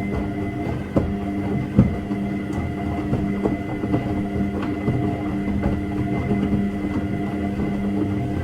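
Washing machine running: a steady motor hum and rumble with irregular knocks, the strongest about one and two seconds in.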